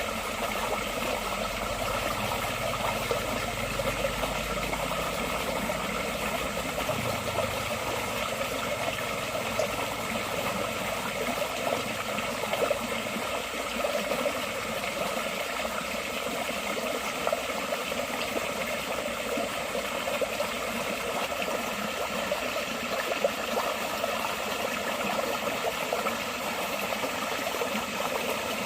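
Forest stream flowing steadily over rocks, a continuous splashing rush, with a faint low rumble under it for the first several seconds.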